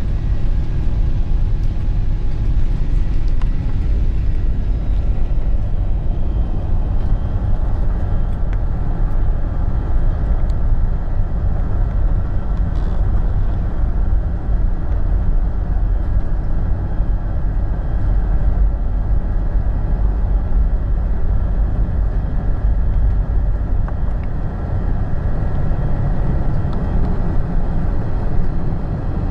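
Steady low rumble of an Airbus A380 heard from inside the cabin, engines and airframe noise running without change, with a few faint steady tones above it.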